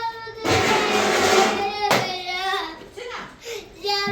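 A young child's high voice making drawn-out calls or sing-song sounds. A noisy rush runs from about half a second in to two seconds, ending in a sharp click.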